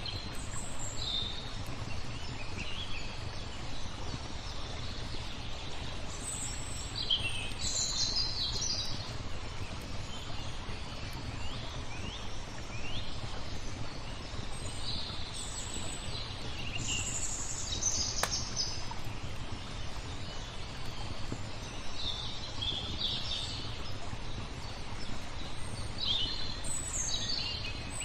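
Small songbirds chirping and trilling in short bursts over a steady wash of flowing water, with a single sharp click about two-thirds of the way through.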